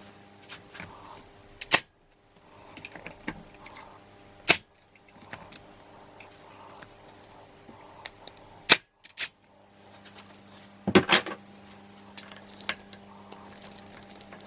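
Hand tools and metal engine parts clinking and clicking on a workbench during a Honda CB450 engine teardown: a handful of sharp metallic knocks spread through, the biggest cluster about eleven seconds in, over a steady low hum.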